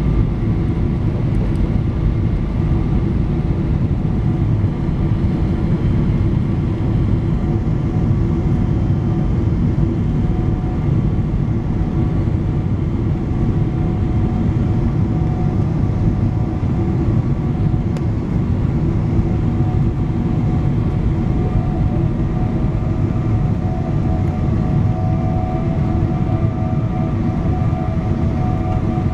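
Steady cabin noise inside a Boeing 777-200 jet airliner in flight: a dense low rumble of engines and rushing air, with faint steady engine tones above it.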